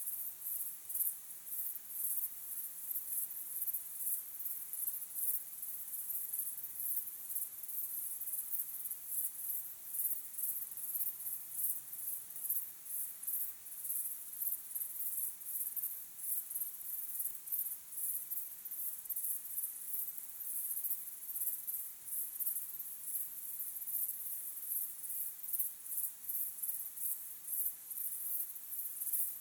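Crickets chirping in an unbroken, high-pitched chorus of rapid, evenly repeating pulses.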